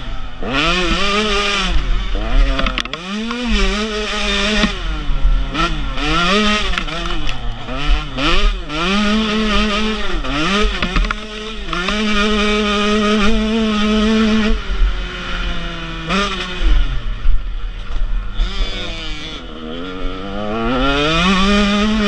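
KTM 125 SX two-stroke single-cylinder motocross engine being ridden hard, its pitch climbing and dropping about once a second as the throttle is worked. It holds a high, steady note for a couple of seconds past the middle, falls away low for a few seconds, then climbs again near the end.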